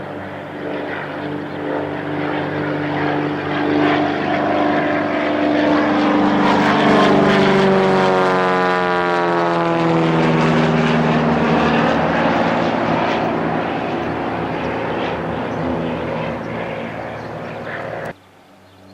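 Cessna Agwagon crop-dusting plane's piston engine and propeller flying past. It builds to its loudest about seven seconds in, and its pitch drops as the plane goes by. It then runs on steadily until the sound cuts off suddenly near the end.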